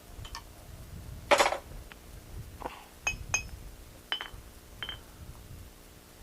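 Blacksmith's hammer striking a slitting punch into a steel bar on an anvil: a handful of irregular, ringing metallic clinks, with one heavier blow about a second in.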